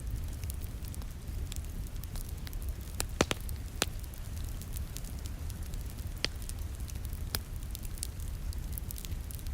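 Wood fire crackling in a fireplace: scattered sharp pops and snaps, a cluster of loud ones about three to four seconds in, over a steady low rumble.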